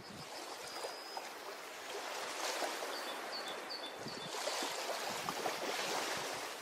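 Ocean waves washing onto a beach, the surf swelling twice, louder in the second half.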